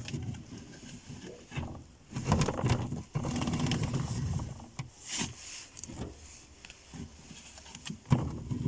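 Kitchen handling sounds: irregular light knocks and clatter, with a longer stretch of continuous noise in the middle, as produce and containers are handled.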